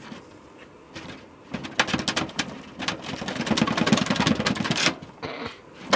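Seasoned rainbow trout laid into a hot pan, sizzling and crackling loudly for a few seconds before dying down near the end.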